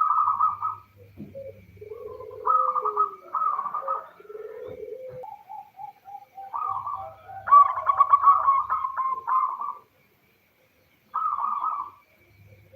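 Zebra dove (local perkutut) calling, a female's call used to draw males: a run of short, rapidly pulsed cooing phrases with lower notes between them. The calls break off about ten seconds in, then one more phrase follows.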